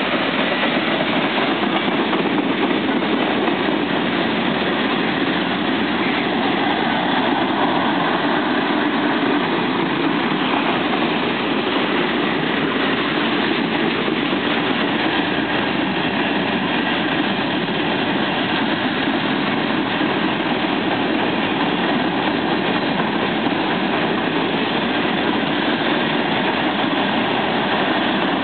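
CSX freight train rolling past: a steady, unbroken rumble of wheels on rail.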